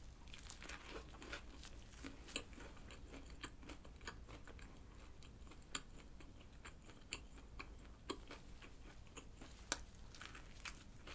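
A person eating a McSpicy Creamy Onion fried chicken burger into a close microphone: faint, irregular crunches and wet mouth clicks as it is bitten and chewed, with a sharper crunch near the end at a fresh bite.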